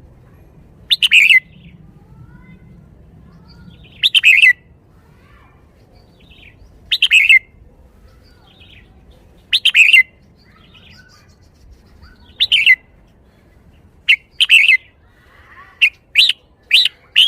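Red-whiskered bulbul singing short, loud, bright phrases about every three seconds, then faster near the end.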